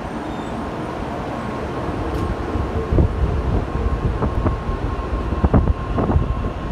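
Tokaido Shinkansen N700-series train departing, a steady low rumble that grows slightly louder as it gathers speed, with a faint steady whine and irregular thumps from about three seconds in.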